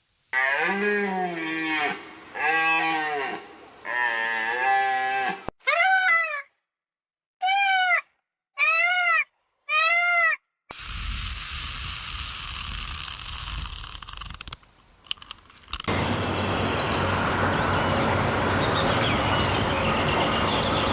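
A run of animal bleats: three long calls, then four shorter, higher calls that rise and fall. About halfway through they give way to a steady rushing noise, and after a short break to a busy noisy background.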